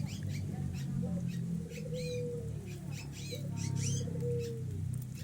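Zebra doves and spotted doves cooing, with two longer gliding coo notes about two and four seconds in. Short high chirps of small birds come and go throughout.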